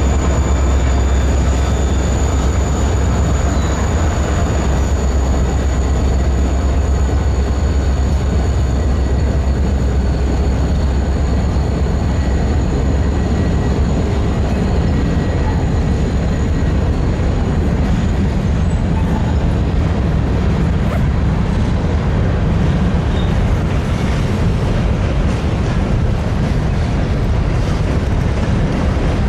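Freight train running steadily, with a deep rumble that eases about two-thirds of the way through.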